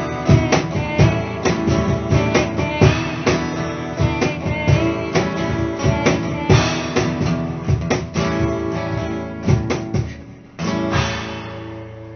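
Acoustic guitar strummed in a steady rhythm with sharp percussive hits, playing the song's instrumental ending. About eleven seconds in it stops on a final chord that rings and slowly fades.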